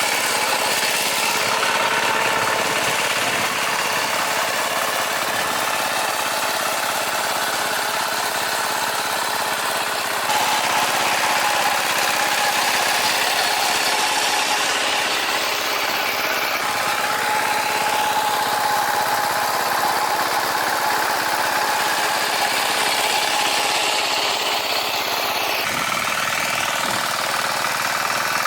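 Farm tractor engine running steadily while harrowing, with a few brief shifts in pitch.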